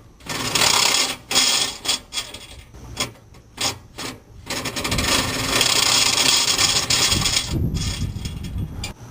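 Ratchet wrench spinning out the last manifold bolts on a Jeep 4.0L straight-six: rapid ratcheting rasps in several short bursts, then one longer run of about three seconds.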